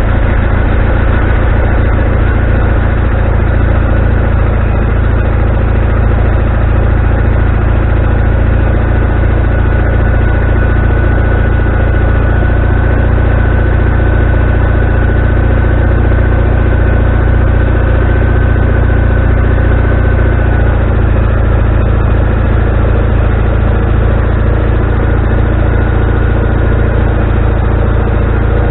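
Wood-Mizer LT40HD sawmill engine running steadily just after start-up, its first run in over a year. A faint high whine runs over the engine note and fades about two-thirds of the way through, when the note shifts slightly lower.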